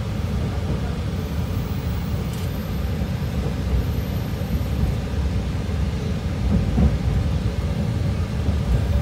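Train in motion heard from inside the car: a steady low rumble of the running gear on the rails.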